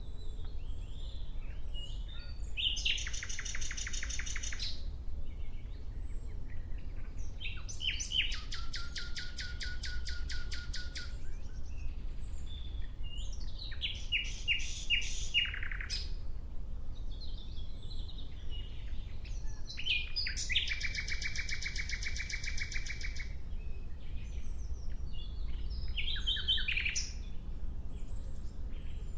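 Nightingale singing: a string of separate song phrases, each a rapid, rattling repetition of one note, with short pauses and softer notes between them.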